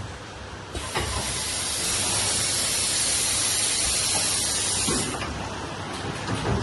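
Automatic CNC bottle screen printing machine running, with a loud, steady hiss that starts about a second in and cuts off suddenly about five seconds in, over low machine running noise and a few clunks.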